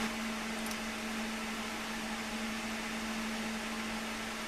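A steady background hum with one constant low tone under a faint even hiss.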